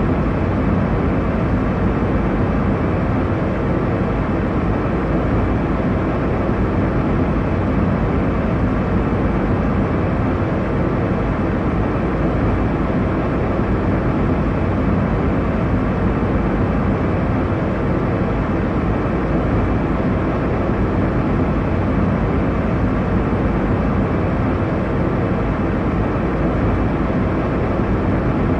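Airliner cabin noise in flight: a steady, even rumble and hiss, strongest in the low range, with a faint steady hum underneath.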